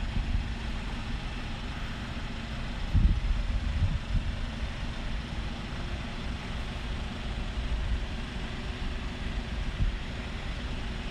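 Low, steady rumble of outdoor street noise, with passing traffic and wind buffeting the phone microphone. The rumble swells briefly about three seconds in.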